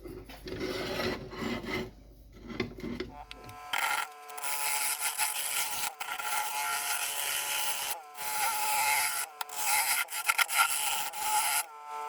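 Turning tool scraping and cutting a yellow cedar and walnut bowl blank spinning on a wood lathe, over a steady whine from the lathe. The cut stops and restarts several times.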